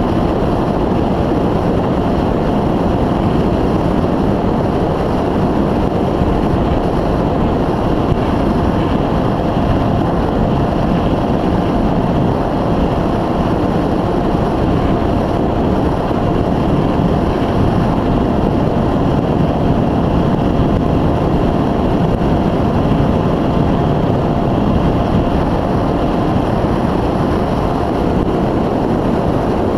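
Multiplex EasyStar II RC model plane in flight, heard from its onboard camera: loud, steady wind noise over the microphone with the constant whine of its electric pusher motor and propeller underneath.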